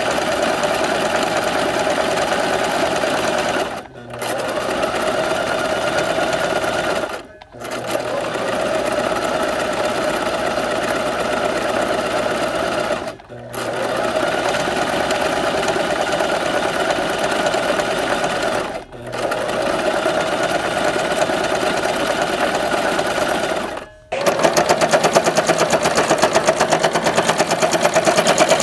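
Sewing machine running in long bursts of stitching, stopping briefly five times. After the last stop, near the end, it runs louder with a quicker, sharper stitch rhythm.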